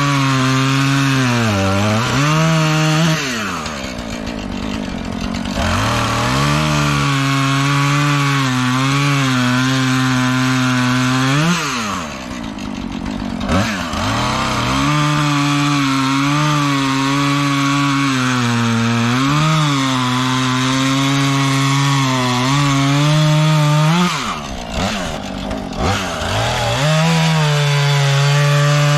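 Chainsaw cutting through a dead pine trunk at full throttle, its pitch wavering with the load of the cut. Three times the throttle is let off and the saw drops to idle for a second or two, then revs back up into the wood.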